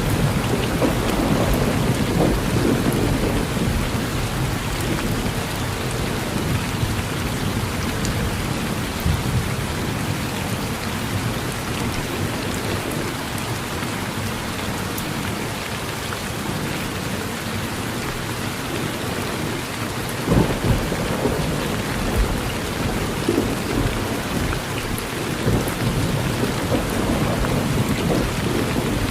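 Steady rain falling on a porch with thunder rumbling low through it: heavier rumbling at the start, a sharp thunder crack about two-thirds of the way through, and more rumbling near the end.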